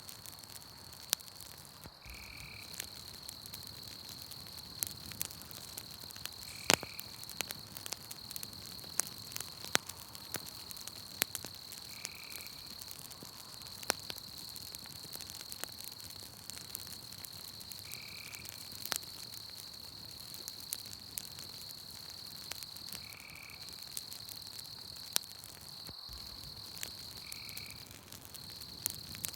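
Campfire crackling with scattered sharp pops, over a steady high-pitched insect trill of a night forest. A short call, frog-like, repeats about every five seconds.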